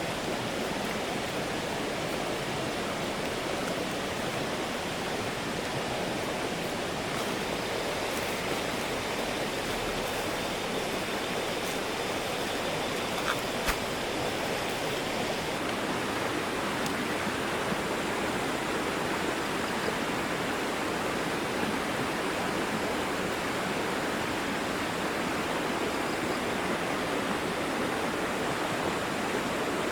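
Steady, even rush of running water, with a couple of faint ticks about two-thirds of the way through.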